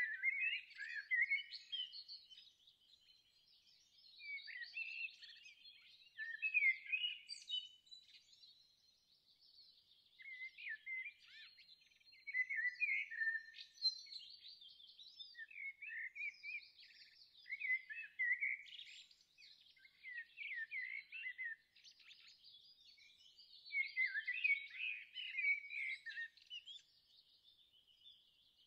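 Songbirds singing: bursts of quick chirping and trilling phrases every few seconds, with a faint thin high steady tone running under them.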